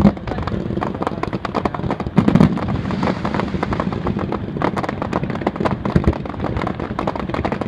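Aerial fireworks going off in a rapid, dense string of crackling pops and bangs, with a louder boom about two seconds in.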